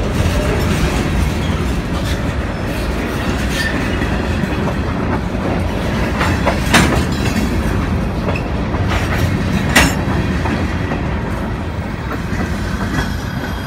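Freight train of covered hopper cars rolling past at close range: a steady rumble of steel wheels on rail with clickety-clack, broken by two sharp knocks about seven and ten seconds in. The sound eases slightly near the end.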